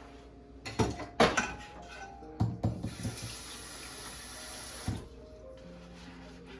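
A few clicks and knocks, then a kitchen tap runs into a sink for about two seconds and is shut off with a click.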